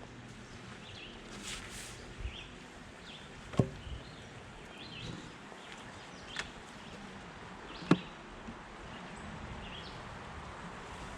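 A hive tool prying and knocking at a wooden beehive's covers, making three sharp cracks about four, six and a half and eight seconds in, the last the loudest. Faint bird chirps sound in the background.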